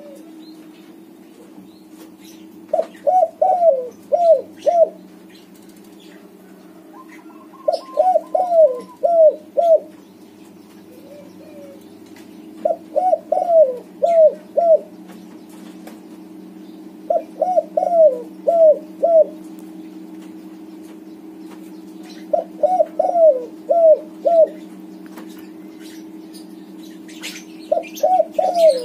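Spotted dove of a white colour variety cooing: a short phrase of about five quick coos, repeated six times at roughly five-second intervals, over a steady low hum.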